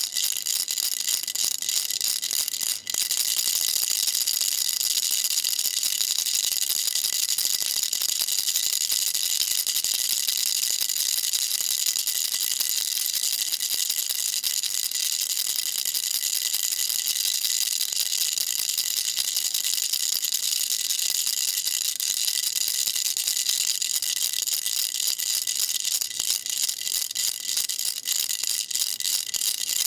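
A baby rattle shaken continuously, a dense, high-pitched, hissy rattle with a brief break about three seconds in.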